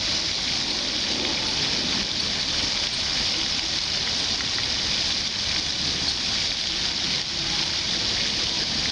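A steady, even hiss of falling water.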